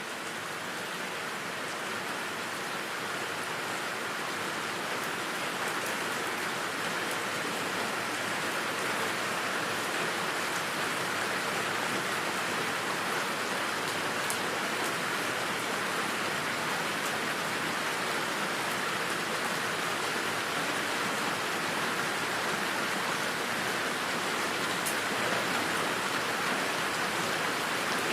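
Steady rain falling, an even hiss with a few faint drop ticks, swelling gradually over the first several seconds and then holding steady.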